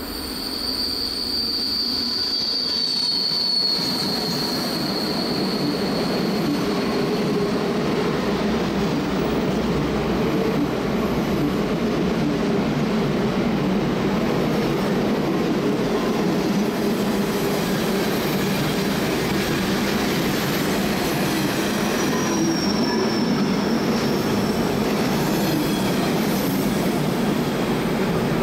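Train running on the Semmering railway with a steady rumble of wheels on track. A high wheel squeal sounds for the first few seconds, falling slightly as it fades, and a fainter squeal comes back briefly later on.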